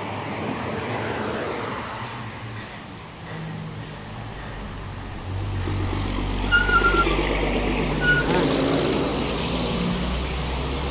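A motor vehicle passing close by on the road, its low rumble growing louder about halfway through, with a couple of short high whistles over it.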